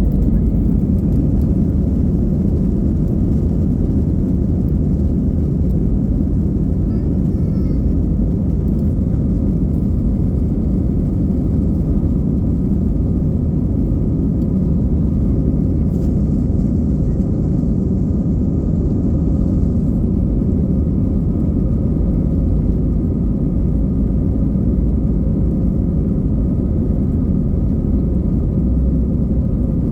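Airliner cabin noise in flight: the steady low rumble of the jet engines and airflow heard from inside the cabin, with faint steady engine tones above it.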